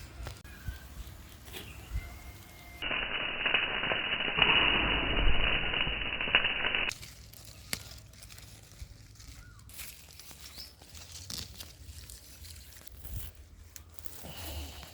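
Loud crackling sizzle of food cooking over high heat, starting about three seconds in and stopping abruptly about four seconds later. Around it are faint kitchen clicks and rustles.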